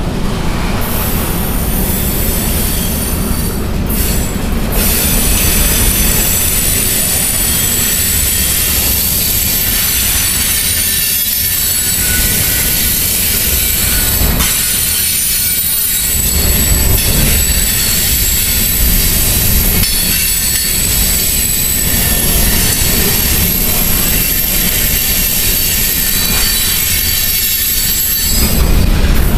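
Loaded coal hopper cars of a freight train rolling slowly past: a steady low rumble of steel wheels on rail, with thin high-pitched squealing from the wheels.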